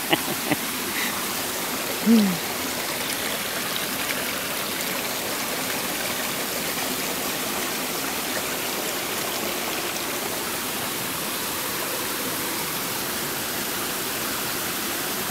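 Stream water rushing steadily. About two seconds in, a short voice sound falls in pitch.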